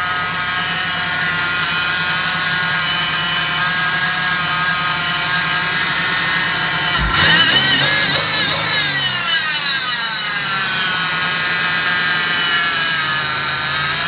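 Cold vehicle engine idling steadily with a high whine. About seven seconds in it is blipped once, with a sharp knock at the blip, and its pitch slides back down to idle over the next few seconds.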